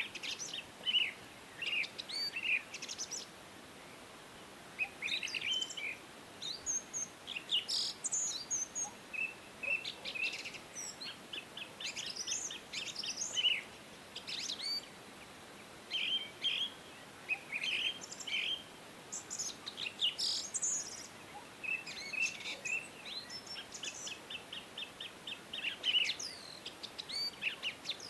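Small birds chirping and trilling in short, high, repeated phrases, separated by brief pauses.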